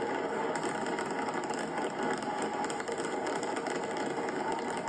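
Massed New Year fireworks going off at once, a steady wash of crackling and rumbling with no single bang standing out, heard through a television's speaker.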